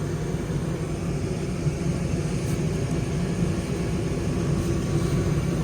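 Goodman gas furnace running with its burners lit: a steady low hum and rumble from the inducer fan and burner flames. The furnace is firing on its new flame sensor while the call for heat continues.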